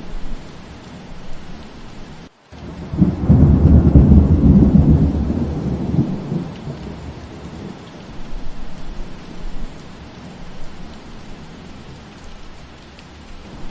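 Steady rain with a roll of thunder. After a brief gap about two seconds in, a deep rumble swells up about three seconds in, is loudest a second or two later, and fades away over the following few seconds.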